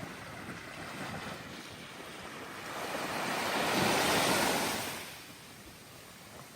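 A sea wave breaking and washing up the sand on a calm beach. The rush swells about three seconds in and dies away over the next couple of seconds, over a lower steady hiss of surf.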